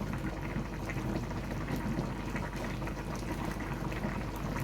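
A pot of curry chicken feet simmering, bubbling steadily with small pops and crackles.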